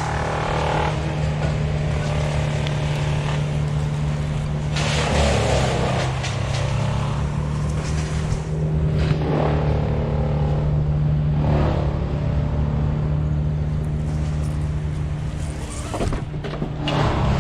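Truck-mounted boom crane's engine running steadily under load. Louder rushes of noise come several times over the top of it.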